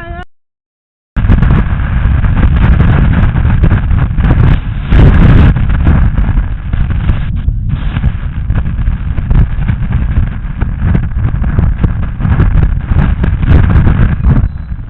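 Wind buffeting a riding cyclist's camera microphone in a loud, low, rough rush, mixed with road traffic noise. The sound cuts out to silence for about a second just after the start.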